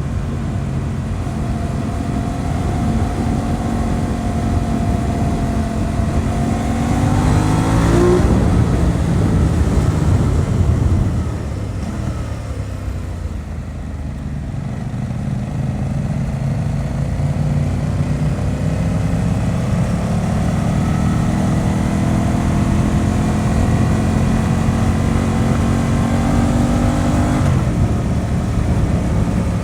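Aprilia RS 660's parallel-twin engine under way, revs climbing to a peak about eight seconds in, then the throttle closing and revs falling off. It then pulls up through a long, slow rise in revs before an upshift near the end drops the pitch.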